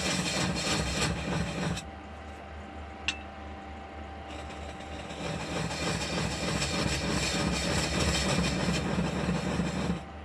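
A hand rubbing mineral oil into a thin poplar lampshade spinning on a wood lathe, over the lathe's faint steady whine. The rough rubbing noise stops about two seconds in, a single click follows a second later, and the rubbing starts again about four seconds in and runs until near the end.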